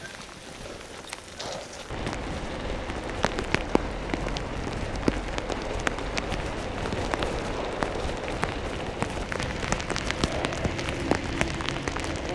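Steady crackling, rustling noise full of small sharp clicks, which comes up suddenly about two seconds in.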